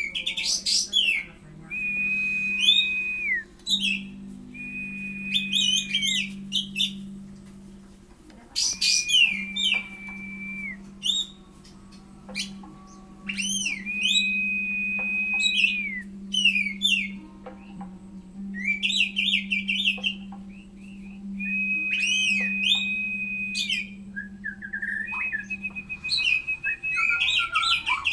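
Caged Oriental magpie-robin (kacer) singing. About six phrases each pair a burst of quick, high sweeping chirps with a long level whistle, with pauses between them, and faster chattering notes near the end. Its owner takes this singing as a sign that the bird is depressed.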